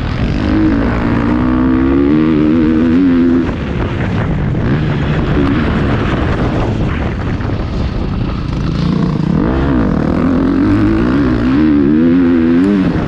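Motocross bike engine heard from an onboard camera, revving up hard under throttle, chopped off about three and a half seconds in, then varying through the middle and pulling up in pitch again before being shut off near the end, over steady noise of the ride.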